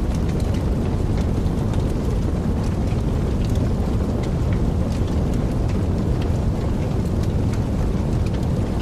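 Wood fire burning in a fireplace: a steady low rumble of the flames with many small, sharp crackles scattered irregularly throughout.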